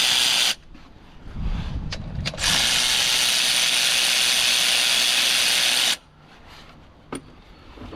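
Cordless power tool on a deep 16 mm, 3/8-inch-drive socket spinning out a gearbox bolt. It runs briefly at the start, there is some rough clattering, then a longer run of about three and a half seconds stops sharply. A single click follows near the end.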